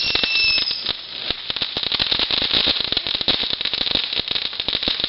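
Fireworks crackling: a dense, rapid run of small pops and snaps that goes on without a break. A thin, high, steady whistle sounds through about the first second.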